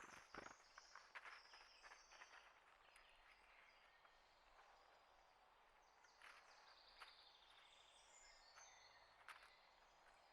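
Faint chirps and short high calls of small birds, with scattered sharp clicks and taps, most of them in the first two seconds.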